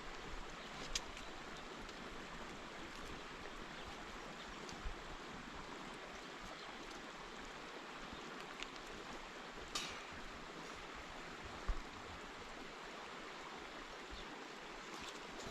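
Steady rush of running water, with a few small clicks or knocks: about a second in, near ten seconds and near twelve seconds.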